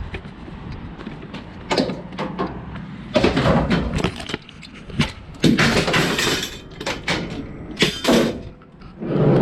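A run of knocks and scraping clatters, with several louder rough bursts of about a second each, like objects being handled and moved.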